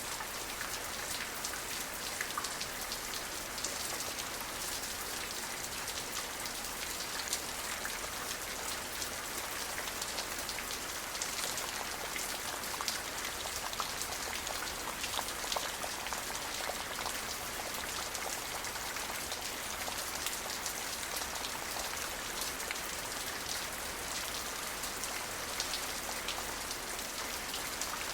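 Steady rain falling, a dense even hiss with many small distinct drop ticks hitting a surface.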